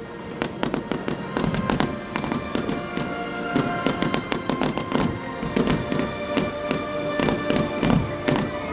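Fireworks going off in quick irregular succession, many bangs and crackles a second, over music with long held notes.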